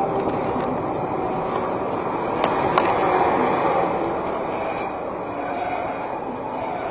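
Steady road and traffic noise of a moving vehicle, with two sharp clicks about two and a half seconds in.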